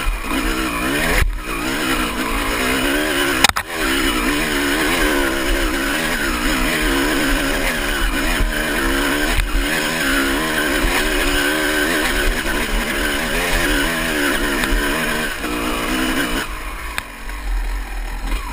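Honda CR250 two-stroke single-cylinder dirt bike engine revving hard under load, its pitch wavering as the throttle is worked, with a sharp knock about three and a half seconds in. The revs drop off near the end.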